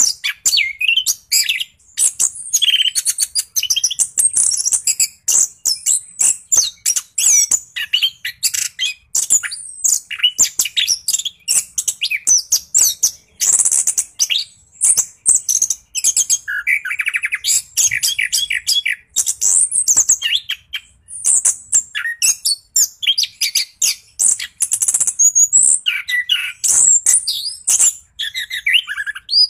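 Chestnut-capped thrush (anis kembang) singing nonstop in a fast run of varied high chirps, whistles and trills, with almost no pauses: the rolling, full song that bird keepers prize.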